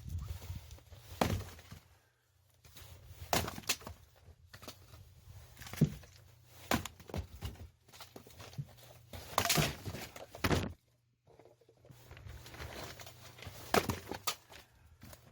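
Irregular wooden knocks and thuds as cut firewood is handled, with the loudest knocks about six seconds in, around ten seconds and near the end.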